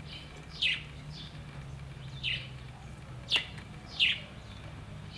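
A small bird chirping repeatedly: about five short, falling chirps, roughly one a second.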